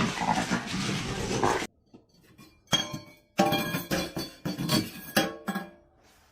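Rapid ringing clinks, several a second in two short runs, like hard objects such as glass knocked together. They come after a dense noisy sound that cuts off abruptly about a second and a half in.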